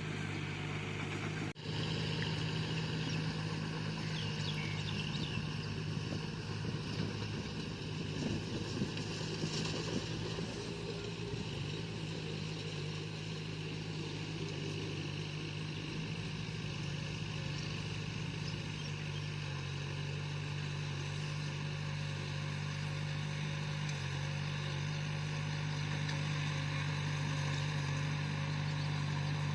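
Bulldozer's diesel engine running steadily with an even drone, broken once by a momentary dropout about a second and a half in.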